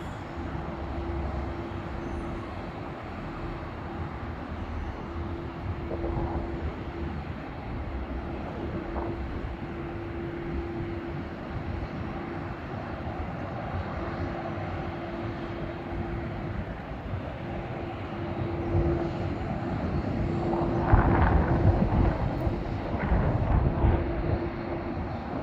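Jet airliner engines running steadily with a constant hum, growing louder with rushing surges about twenty seconds in.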